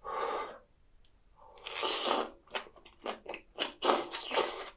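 Close-miked eating: a mouthful of soupy spicy chicken feet and soybean sprouts taken from a spoon, then chewed with a run of short, crisp crunches in the second half, the sound of crunchy bean sprouts.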